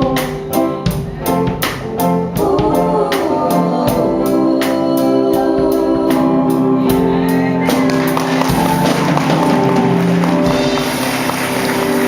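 Gospel music played live: a steady beat with held organ-like chords, and a wavering vocal line in the second half.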